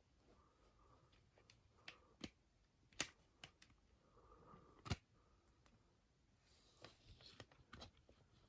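Faint handling of a CD and its packaging: a scatter of sharp clicks and taps, the loudest about three and five seconds in, with light rustling near the end.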